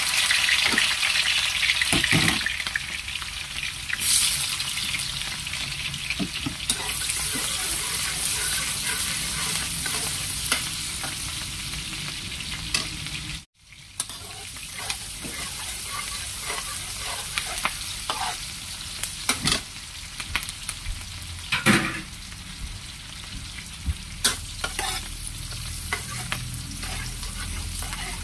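Sliced shallots and garlic sizzling in hot oil in a wok. The sizzle is loudest just after they go in, then settles. A spatula scrapes and taps against the wok as they are stirred. The sound cuts out for a moment about halfway through.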